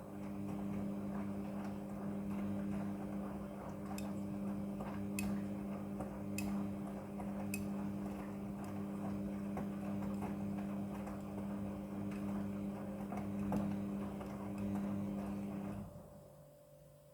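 Midea front-loading washing machine turning its drum during the wash: a steady motor hum with churning from the drum and faint ticks about once a second. The drum stops about a second before the end, a pause of the wash cycle.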